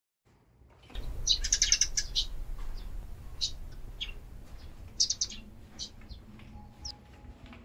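Small birds chirping in short, quick-pulsed bursts, loudest about a second in and again about five seconds in, over a low steady hum.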